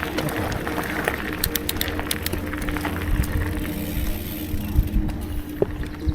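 Riding noise from a bike-mounted camera: a steady low rumble of wind and rolling, with a steady hum and frequent rattling clicks, thickest about a second and a half in.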